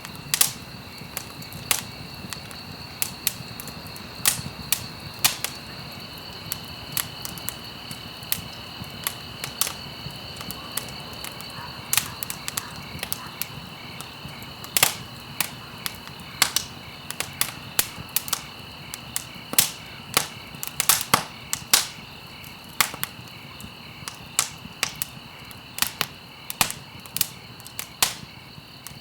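Campfire crackling: irregular sharp pops and snaps, a few per second and bunching into quick runs in the second half. A steady, thin high whine runs underneath the whole time.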